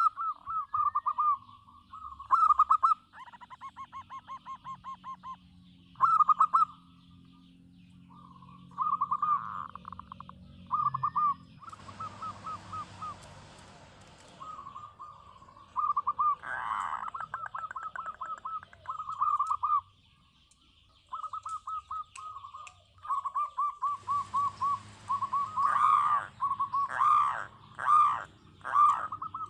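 Zebra dove (local perkutut) cooing: phrase after phrase of quick, clipped coos at one pitch, separated by short pauses. Near the end, louder notes that rise and fall come in.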